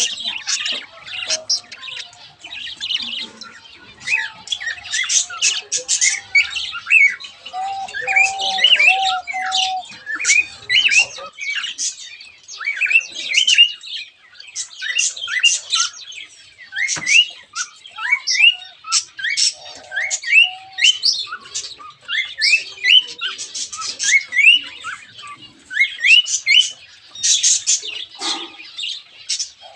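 A flock of small aviary birds chirping and squawking continuously, with many short rising calls overlapping throughout.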